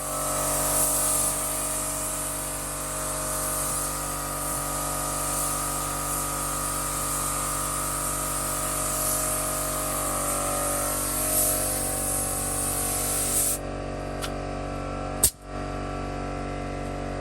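Pneumatic spray gun spraying primer on a car body, a steady hiss of air that runs for about thirteen seconds and then cuts off. A steady machine hum sits underneath, and a sharp click comes a second or two after the spraying stops.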